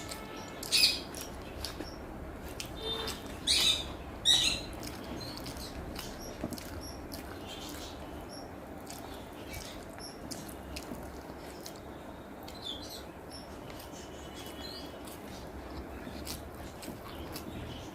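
Close-up eating sounds: wet chewing, lip smacks and small mouth clicks as a person eats a rice meal. The loudest smacks come about a second in and again around three and a half and four and a half seconds in.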